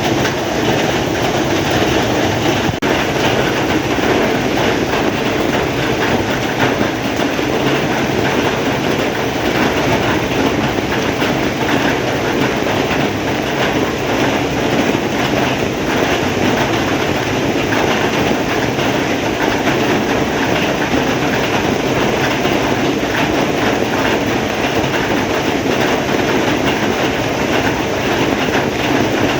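Heavy rain falling in a steady, dense patter.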